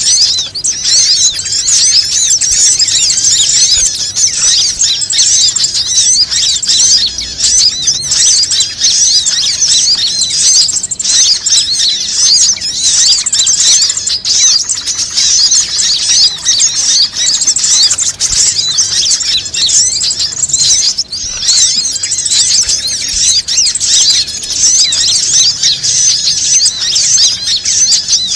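Dense, unbroken chorus of rapid high-pitched chirps from many small birds, a bird-lure (pikat) call used to draw birds in.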